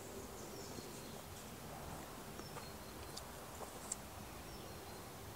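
Quiet background with faint, high-pitched bird chirps and a few light clicks of small plastic plant pots being handled, the sharpest about four seconds in.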